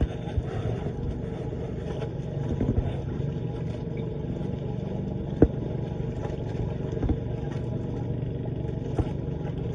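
A motorboat engine running steadily, with a few sharp knocks, the loudest about five and a half seconds in.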